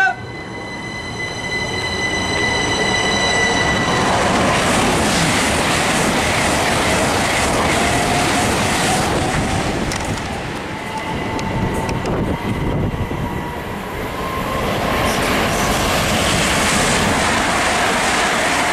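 Electric passenger trains running through a station. There is a steady high whine for the first few seconds, then continuous loud rumbling and rattling of wheels on the track, with a traction motor whine rising in pitch around the middle.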